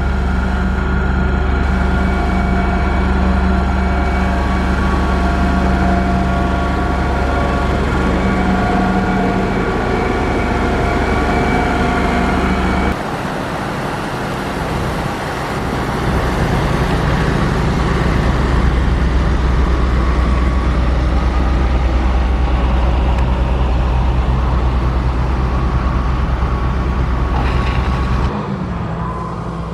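A motor grader's engine running steadily at work, a heavy machine hum. It drops off abruptly about 13 seconds in, comes back up a few seconds later, and falls away again near the end.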